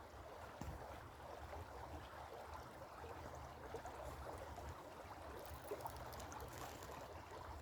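Faint, steady trickle of creek water, with a few light ticks.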